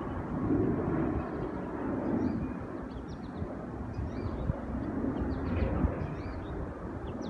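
Boeing 787-9 Dreamliner's jet engines during landing: an uneven low roar that swells and fades. Short, faint high bird chirps come through on top.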